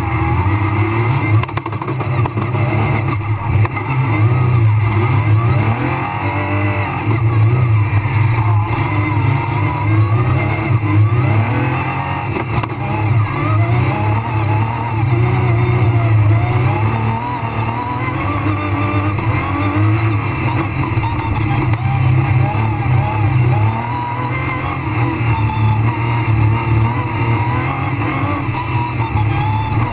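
Rally car engine heard from inside the cockpit at full stage pace, its revs climbing and dropping over and over as the driver accelerates, lifts and shifts.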